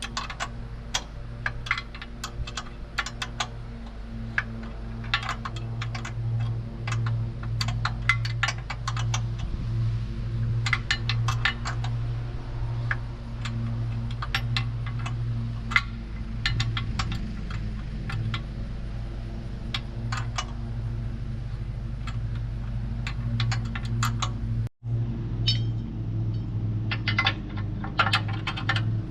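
Mini skid steer's small engine running steadily, with frequent metallic clinks and rattles over it. The sound cuts out for a moment near the end.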